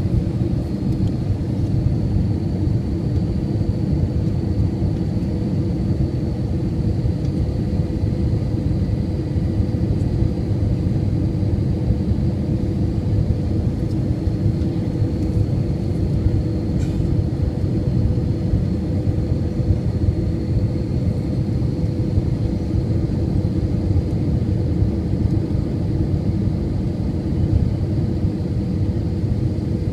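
Jet airliner on its landing approach: a steady low drone of engines and airflow, with a faint steady high whine above it.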